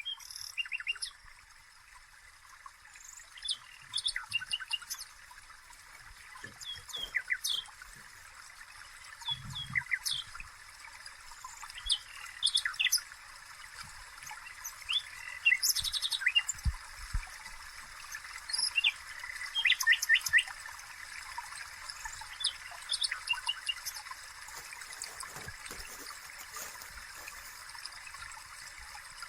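Birds chirping in short, repeated calls over a steady hiss, with a few soft low knocks.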